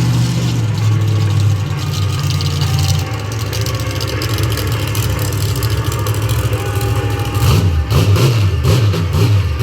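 Monster truck engine running loud and steady, then revved hard in quick rising and falling bursts from about two-thirds of the way in, with clattering knocks.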